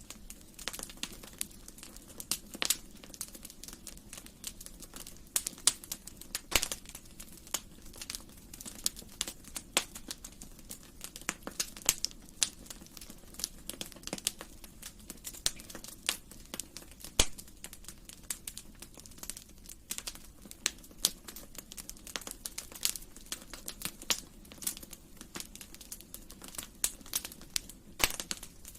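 Wood fire crackling in a fireplace: irregular sharp snaps and pops, several a second, some much louder than the rest.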